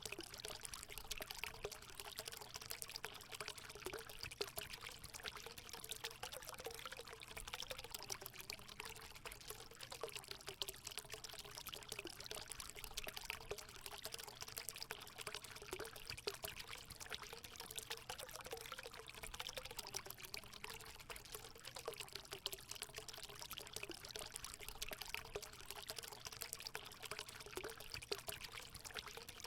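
Water running steadily into a hot spring pool: a continuous pouring splash with a wavering gurgle beneath it.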